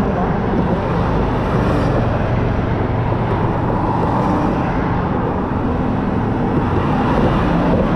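Sport motorcycle cruising at a steady speed, its engine running at a constant pitch under a loud, even rush of road and wind noise.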